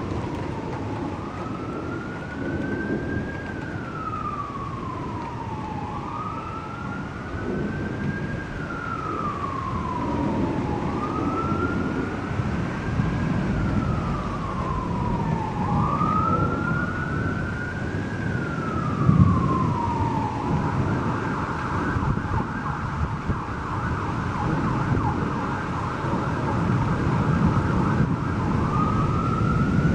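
An emergency vehicle siren wailing slowly, rising and falling about every five seconds. About two-thirds of the way through it switches to a fast warble, then goes back to the slow wail near the end. A steady low rumbling noise runs underneath, with a brief louder burst just before the switch.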